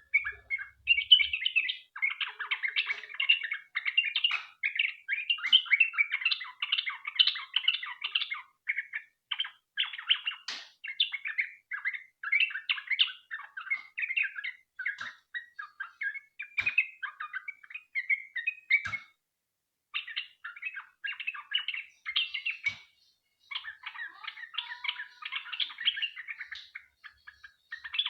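Yellow-vented bulbul (trucukan) singing a long, rapid run of chattering chirps, with a short break about two-thirds of the way through.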